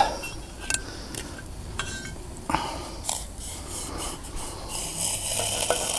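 Handling of camp cookware: a few light clinks, then a longer stretch of rubbing and rustling from about halfway through, as mashed-potato mix is readied for the pot of hot water.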